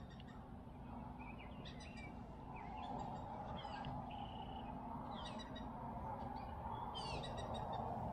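Songbirds chirping and calling, many short sweeping chirps and a brief held whistle about four seconds in, over a steady background hiss.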